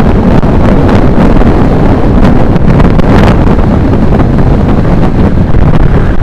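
Heavy wind rushing over the microphone of a camera riding on a road bike during a fast downhill descent: a loud, steady roar of noise, strongest in the low end.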